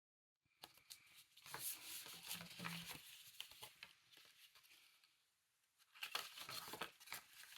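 Faint rustling and crinkling of paper craft materials being handled, with small clicks and taps, in two spells separated by a pause of about two seconds.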